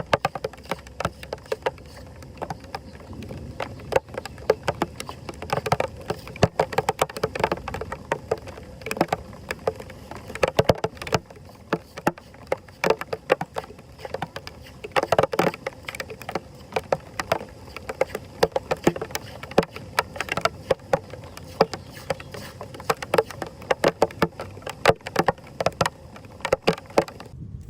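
Water splashing and sloshing in quick, irregular strokes, as debris is worked out of a flooded street drain. It stops abruptly near the end.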